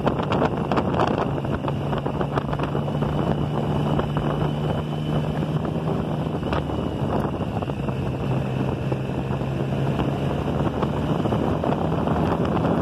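Motorcycle engine running at cruising speed under heavy wind noise on the mounted phone's microphone; the engine note dips a little past the middle and rises again near the end.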